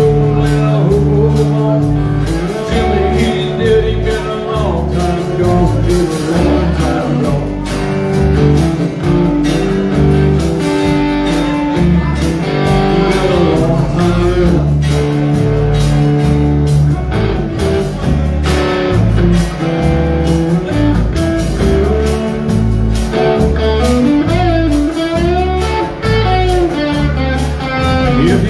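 Live outlaw country band playing a blues-style song, with guitar over a steady bass-and-drum beat.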